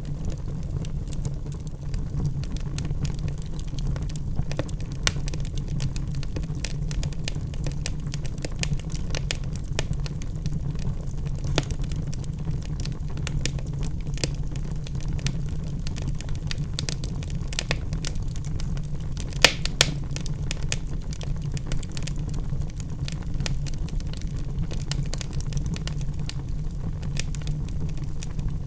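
Log fire in a fireplace burning with a steady low rumble and scattered crackles and pops, the loudest a sharp pair of pops about two-thirds of the way through.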